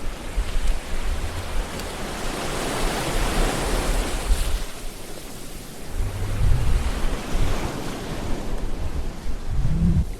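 Sea waves washing on a shore. A wash of surf hiss swells a few seconds in and fades, and low rumbles come again from about six seconds in.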